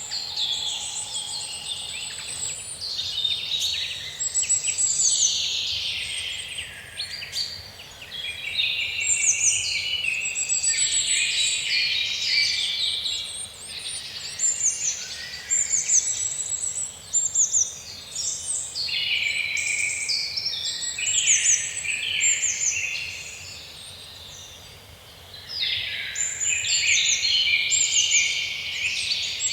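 Several songbirds singing at once in woodland, a dense chorus of high trills and rapidly repeated chirps that overlap throughout, easing briefly a little after three-quarters of the way through.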